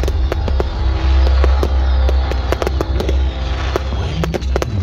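A dense barrage of firework bursts: many sharp bangs and crackling reports in quick succession, over a heavy low rumble. Music plays underneath.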